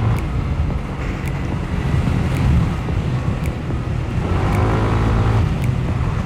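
Wind rushing over the helmet-mounted microphone while riding a Yamaha NMAX 155 scooter, over the steady drone of its single-cylinder engine, whose note rises for a moment about four seconds in. A faint tick repeats about once a second.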